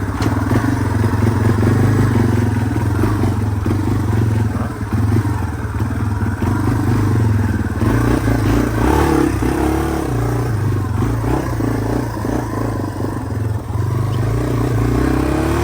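Yamaha TW200's air-cooled single-cylinder four-stroke engine idling steadily, its pitch rising and falling a little about nine seconds in.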